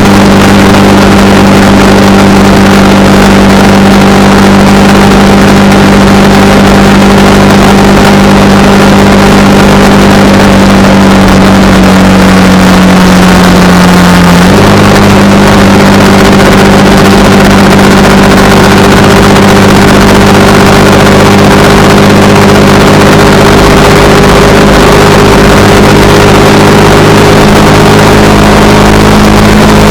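Honda Rebel 300's single-cylinder engine running steadily at cruising speed. Its pitch sags briefly about halfway through, then steps back up and holds steady again.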